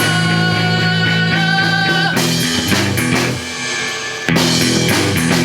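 A live rock band playing an instrumental passage between sung lines, with guitar over a drum kit. The music drops a little in level for about a second, roughly three seconds in.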